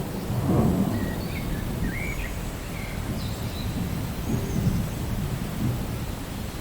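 Steady rain with low rolling thunder, the rumble swelling about half a second in and again after about four seconds.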